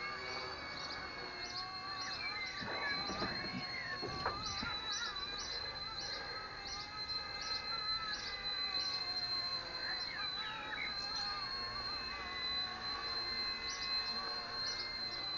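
Small electric RC helicopter flying, its motor and rotors giving a steady high whine, with the pitch wobbling up and down as the throttle and collective change.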